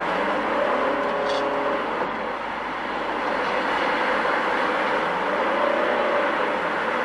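Steady vehicle and road traffic noise that starts abruptly at a cut, with faint pitched tones rising through it twice.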